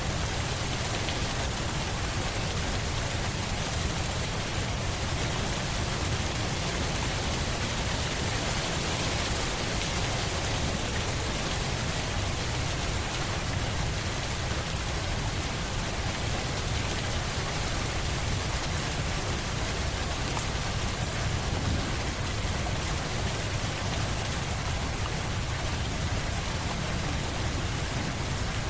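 Steady rain falling on a surface, an even hiss that doesn't change.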